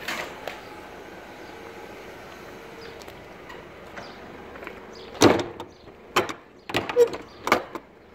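Rear door and access step of a refrigerated box van being worked: a clunk at the start, then a string of knocks and thuds from about five seconds in, over a faint steady hum.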